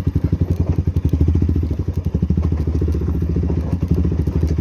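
Motorcycle engine running at low revs in first gear on a steep downhill, a fast even pulsing beat, with the engine holding the bike back.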